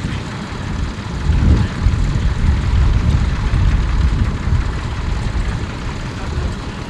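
Tractor engine running with a low, uneven rumble. It grows louder about a second and a half in, then eases off.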